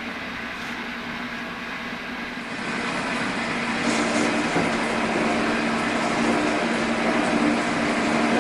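Machine tool running while cutting aluminum: a steady mechanical noise that gets louder about two and a half seconds in, with a steady low hum joining it from about four seconds.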